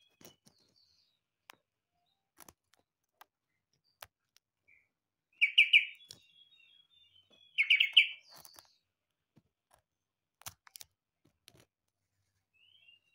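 Yellow-vented bulbul (trucukan) singing. It gives two short, loud, bubbly phrases about two seconds apart, each trailed by a softer run of higher notes, with faint clicks in between. Its song is likened to a green leafbird's (cucak ijo).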